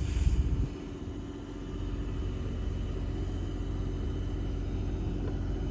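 Steady low mechanical hum of running HVAC equipment, with a short rumbling noise in the first half second.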